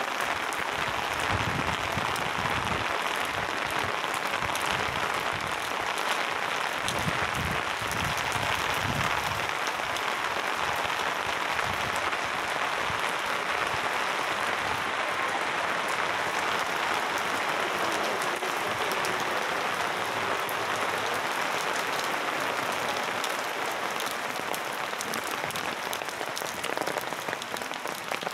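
Heavy rain falling steadily on wet stone paving and puddles, a dense, even hiss.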